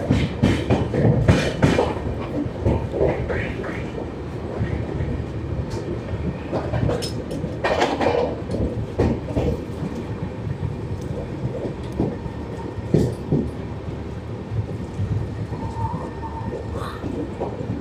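An express passenger train running along the track, heard from inside the coach: a steady rumble of the wheels with irregular clattering knocks over the rail joints.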